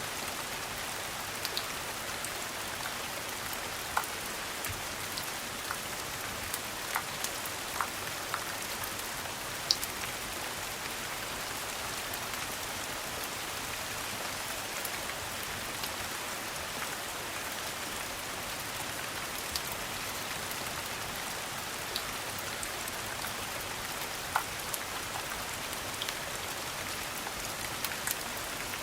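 Steady rain hiss, with scattered sharp pops and crackles from a fireplace, a handful of them standing out.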